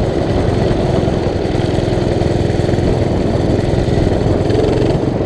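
Mini bike's small engine running steadily as it rides along, at a near-constant pitch.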